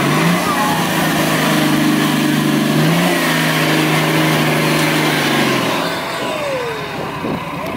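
An off-road 4x4's engine revving hard, its pitch climbing at the start and again about three seconds in, holding steady, then dying away about six seconds in.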